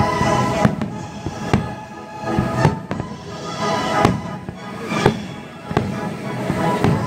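Aerial firework shells bursting, with a sharp bang roughly once a second over music that plays throughout.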